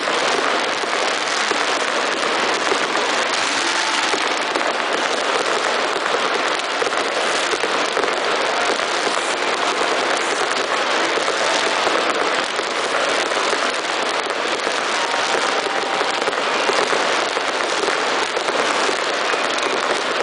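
Ground-level pyrotechnic fountains hissing steadily with a fine, dense crackle.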